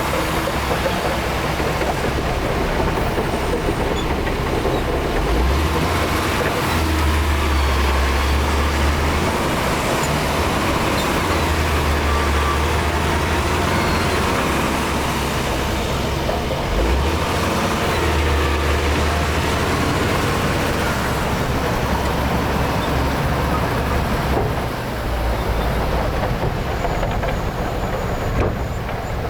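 Heavy diesel engine of a crawler bulldozer working under load, with a steady clatter. Its low rumble swells and eases several times as the load changes.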